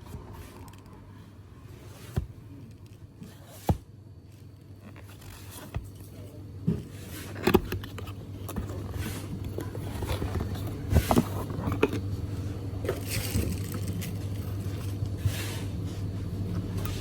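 Handling noise from unboxing a Bluetooth speaker: scraping and rubbing of packaging, with scattered sharp knocks that grow busier and louder as it goes on.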